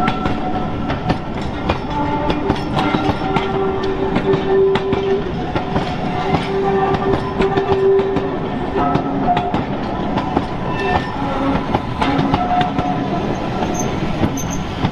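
GWR Small Prairie tank steam locomotive 5541 and its train rolling slowly past, wheels clicking and clanking over the rails, with held whining tones that come and go.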